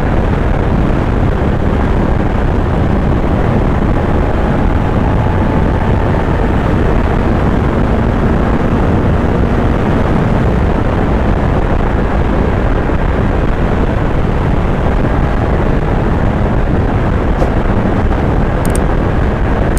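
Kawasaki Z900 inline-four engine running at a steady cruise, under heavy wind rush on the microphone. A couple of faint high ticks come near the end.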